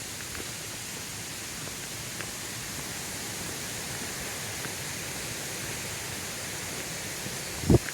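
Steady rushing hiss of a creek waterfall, falling water heard as an even noise. A single short thump near the end.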